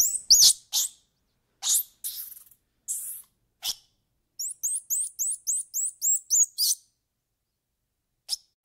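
Squirrel monkey giving high, sharp chirping calls: a few single chirps, then a quick run of about ten rising chirps at about four a second, with dead silence between them.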